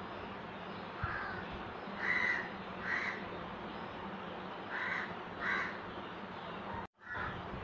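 A bird calling repeatedly: about five short calls, mostly in pairs less than a second apart, over a steady low hum. The sound cuts out for a moment near the end.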